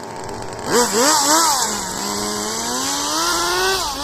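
Small engine of a radio-controlled drift car revving: two quick blips, then a long rev that slowly climbs and drops off near the end, with a steady hiss over it.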